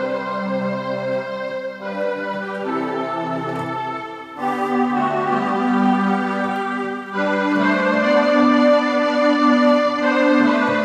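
Electronic keyboard playing a slow hymn on an organ-like voice: sustained chords that change every second or two.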